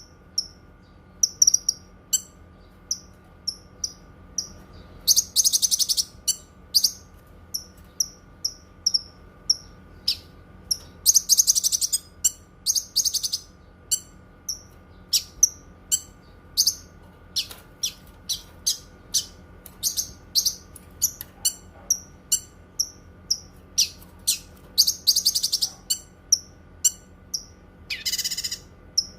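Cucak kinoi songbird singing: a steady run of short, high chirps, several a second, broken every few seconds by louder rattling trills about a second long.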